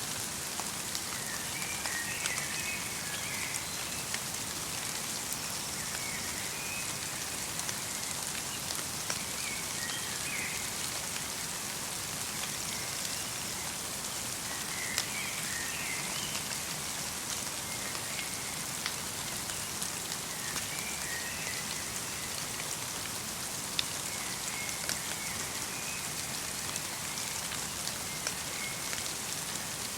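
Light rain falling steadily as an even hiss, with many small drop ticks. Short bursts of small bird chirps come every few seconds throughout.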